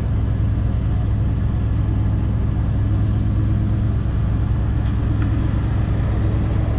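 Heavy truck's diesel engine running with a steady, even low drone.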